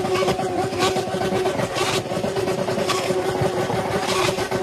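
Yamaha XJ6 inline-four engine through a loud aftermarket exhaust pipe, held at a steady pitch under throttle.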